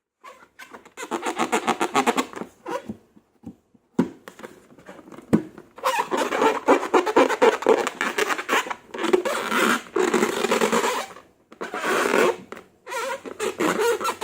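Slime being squeezed and worked by hand, a dense stream of wet clicks and crackles in bursts lasting several seconds, with a few single sharp clicks between them.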